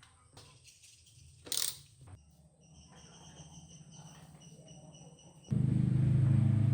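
The Suzuki RG50 Gamma's small two-stroke single-cylinder engine starting to run loudly and steadily, cutting in suddenly about five and a half seconds in, after a stretch of faint clicks and a thin high whine.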